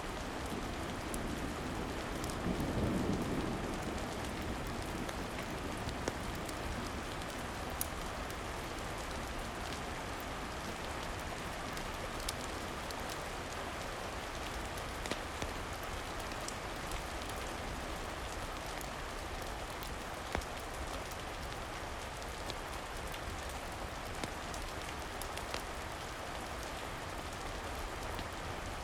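Steady rain falling, with scattered sharp ticks through it and a brief low swell about three seconds in.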